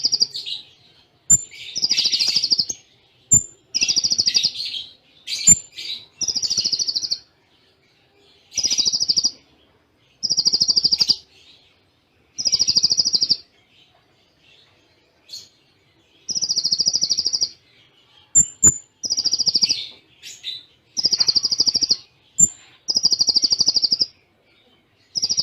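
A Kolibri Ninja (konin) sunbird sings in fast, dense trilled bursts about a second long, one after another with short gaps. Brief high chips come between them. These are the bird's cililin-style phrases.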